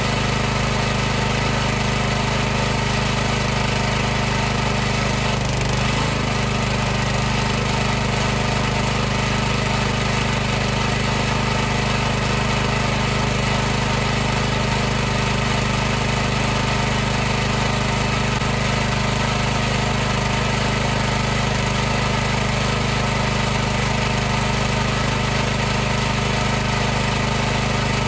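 High-pressure washer running steadily: its motor and pump give a continuous hum with a steady high hiss above it.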